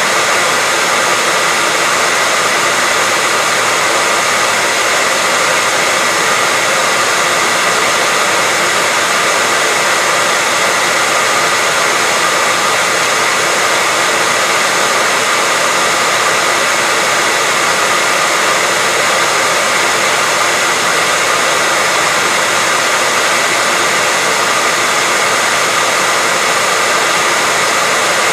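Hair dryer running steadily: an even, unbroken rush of air with a faint steady whine in it.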